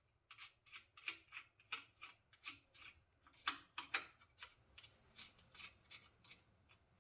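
A run of light, irregular metallic clicks and clinks, about two to four a second, from a hand wrench or socket working the 1/2 inch bolts and lock nuts that hold a miniature locomotive's jackshaft.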